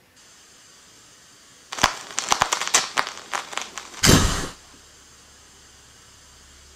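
A rapid run of sharp crackles and clicks for about two seconds, then a short loud noise burst with a deep rumble that cuts off after about half a second.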